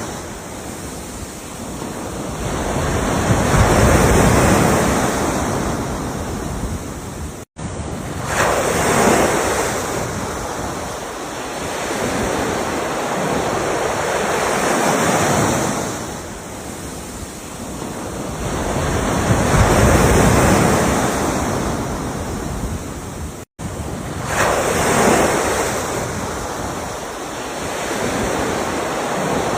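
Ocean waves breaking and washing on the shore, each surge swelling and fading about every five seconds. The sound cuts out completely twice, for a moment each time.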